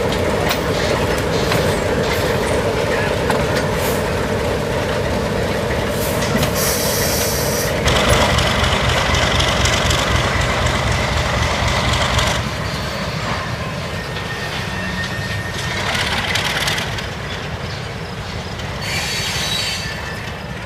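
Alco RS-3 diesel locomotive running as it moves along the track, its engine sound mixed with wheels rolling and screeching on the rails. A high wheel squeal cuts in briefly about six seconds in and again near the end.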